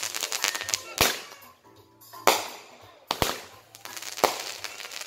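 Fireworks going off: about five sharp bangs, two of them in quick succession just past the middle, with crackling in between.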